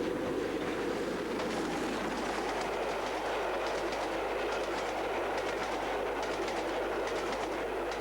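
LNER V2 class three-cylinder steam locomotive 4771 Green Arrow running with its train: a steady rush of noise with light, rapid clicks coming in about a second and a half in.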